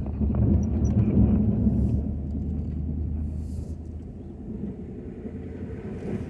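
Ford F-250 pickup truck running while plowing snow, a low rumble that eases off about two seconds in.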